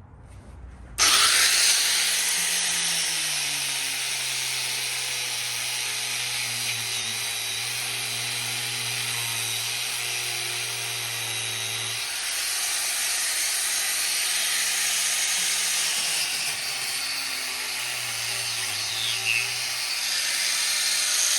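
Angle grinder with a cut-off disc switched on about a second in and cutting into a billet aluminium wheel rim: a loud, continuous grinding with a low motor tone that sags and recovers as the disc is pressed into the metal.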